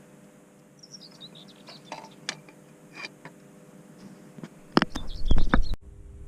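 Small birds chirping and twittering, with a few sharp clicks. About five seconds in comes a second of loud, close knocking and rustling, which breaks off abruptly.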